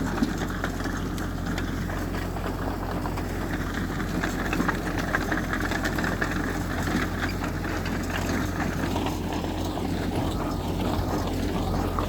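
Heavy diesel engine of earthmoving machinery running steadily, with a continuous low drone and light clatter.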